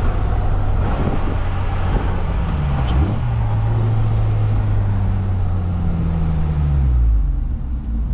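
Car engine pulling away, its note rising about three seconds in, holding steady, then dropping as it eases off near the end, over steady road rumble.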